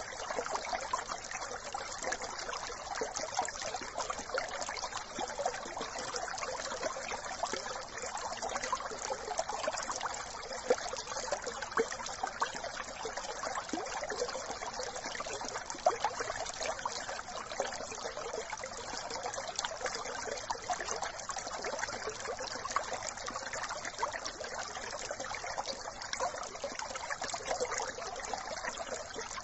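A brook trickling and babbling steadily.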